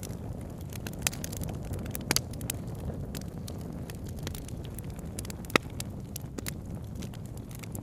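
Campfire crackling, with irregular sharp pops and snaps; the loudest pop comes about five and a half seconds in. Under it runs the steady low rush of a river.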